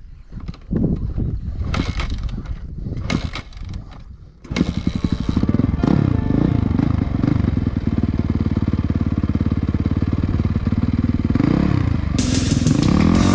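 Motorcycle engine with an ignition fault, catching about four and a half seconds in after a run of irregular knocks and clatters, then running and revved up and down a few times. Music comes in near the end.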